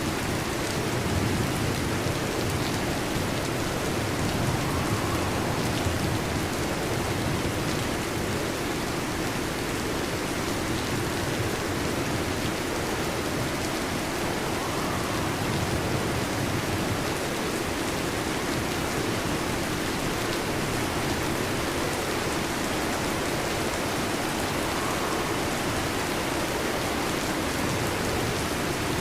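Heavy rain falling steadily, an even wash of drops with no let-up.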